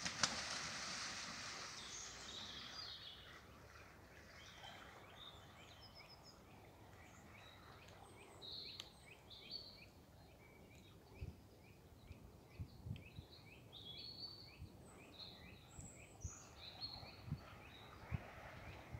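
Small birds calling over and over in short, high chirps in bare woodland, faint. A rushing hiss at the start fades over the first few seconds, and soft footsteps on a dirt path come in during the second half.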